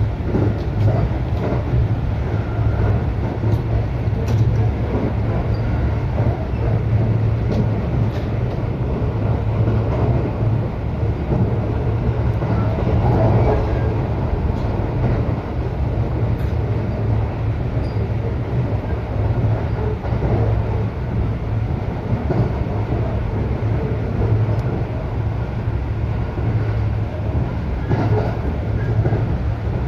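Local electric train running between stations, heard from inside the carriage: a steady rumble of wheels on the rails with a low hum, and a few faint clicks.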